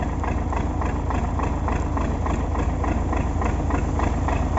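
MTZ tractor's diesel engine idling steadily, with an even pulsing beat about three times a second.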